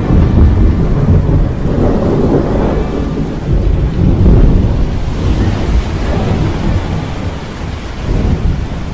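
Sea storm sound effect: heavy rain with deep rolling thunder, the rumble swelling about half a second in and again about four seconds in.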